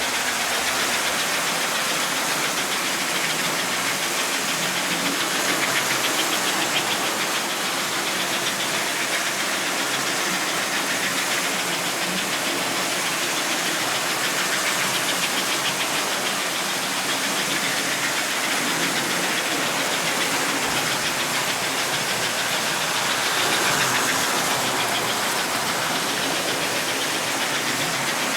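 Vintage American Flyer S-gauge toy steam locomotive running on its track: a steady whirring electric motor with fast clicking of wheels on the rails, growing slightly louder twice as the train passes close.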